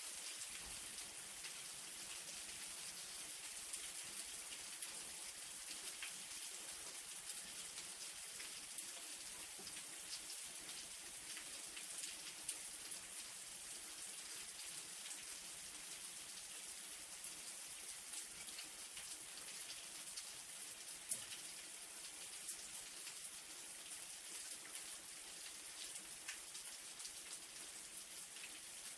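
Light, steady rain: a fine hiss of falling drops with many small individual drop ticks.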